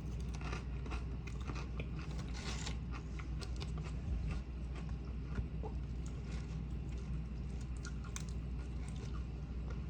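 Close-miked chewing with many small crisp crunches, the mouth sounds of someone eating a meal.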